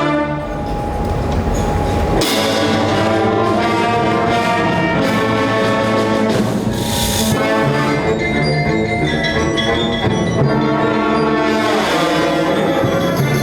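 A high school concert ensemble playing live, brass prominent over sustained full chords.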